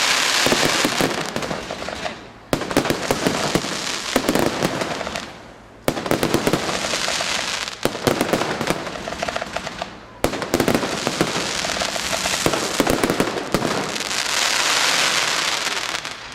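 Aerial fireworks display: dense, rapid crackling reports in overlapping waves, each wave starting with a sudden jump in loudness and fading off a few seconds later.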